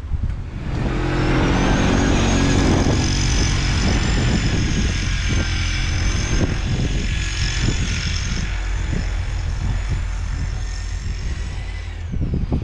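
A vehicle engine running steadily with a high-pitched whine, which glides down in pitch near the end.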